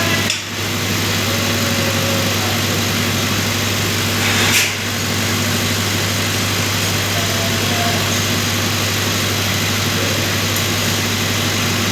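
Steady drone of an engine or machinery running on a construction site, with a constant low hum. Faint distant voices come through, and there is a short rush of noise about halfway through.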